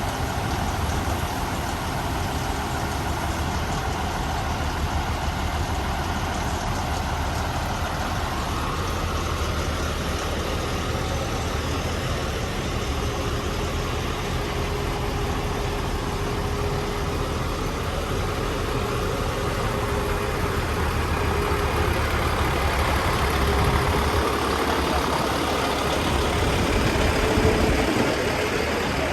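Heavy diesel truck engine idling steadily. A faint steady whine joins about halfway through, and the engine gets a little louder near the end.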